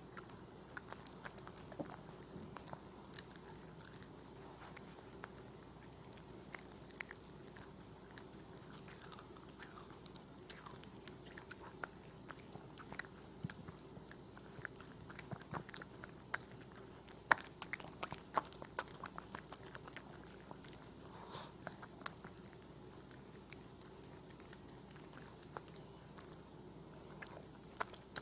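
A small dog chewing and biting strawberries: many quick, irregular wet chewing clicks and crunches throughout, over a faint steady hum.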